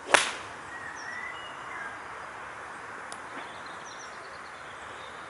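A single sharp click just after the start, then steady open-air background hiss with a few short bird chirps.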